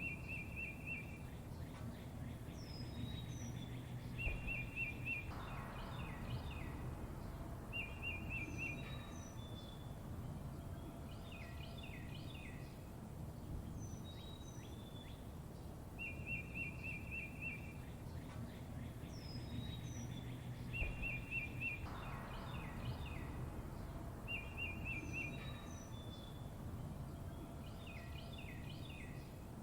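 Songbirds singing: a short, rapid trill about a second long comes back every few seconds, among other quick chirps and whistles, over a steady low background hum.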